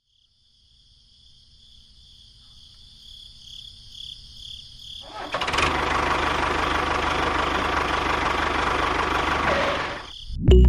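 A small motor whining faintly in two steady high tones that pulse evenly. About halfway through, a much louder, steady, hissing machine noise starts and runs until just before the end.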